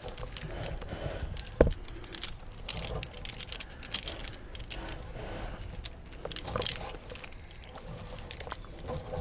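Metal climbing hardware clinking and rope rustling as gear is handled, a scatter of small clicks and rustles with a sharper knock about a second and a half in.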